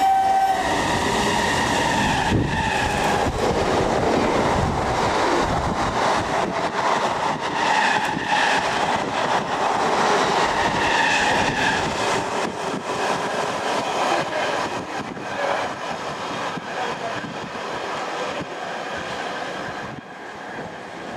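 Trains running through a station at speed: a continuous loud rumble and clatter of steel wheels on the rails as coaches pass close by, fading in the last several seconds. A short horn note sounds right at the start.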